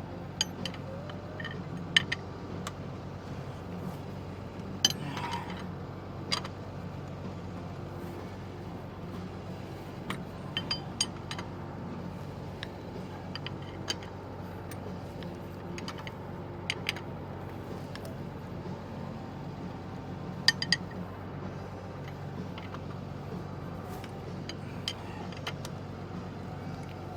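Scattered metal clinks and clicks of a wrench and hand tools on truck brake hardware while a nut is tightened, about a dozen sharp hits spread irregularly, over a steady low hum.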